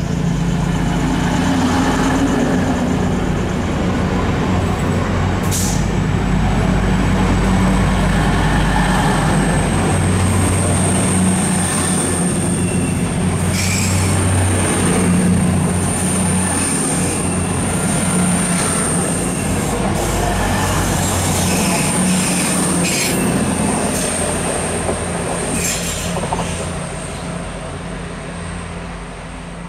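East Midlands Railway Class 222 Meridian diesel multiple unit pulling out along the platform, its underfloor diesel engines running under power with a thin high whine over the low hum. There are a few sharp clicks from the wheels, and the sound fades near the end as the train draws away.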